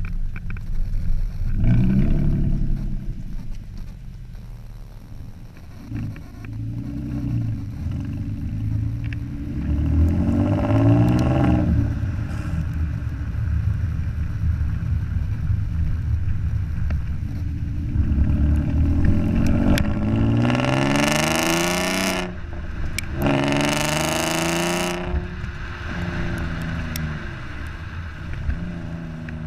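Audi TT 3.2's VR6 engine revving through a non-resonated stainless cat-back sport exhaust, the pitch climbing and dropping back several times. The two biggest runs come about two-thirds of the way through, each with a loud rush over the top.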